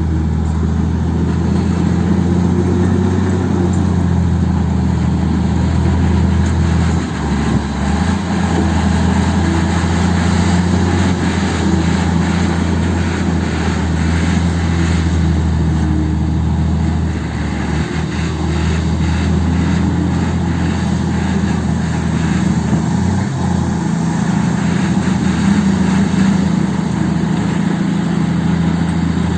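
Heavy diesel engine running steadily under load, a loud, deep, even drone with little change in pace.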